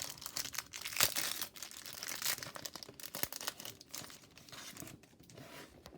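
A trading card pack's wrapper being torn open and crinkled by hand: a run of crackling, tearing rustles with sharp crackles, loudest about a second in and again past two seconds, dying down near the end.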